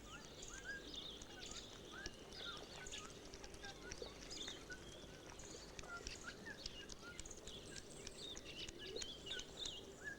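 Many small birds calling, with quick overlapping chirps and twitters throughout, over a faint steady background hiss of outdoor ambience.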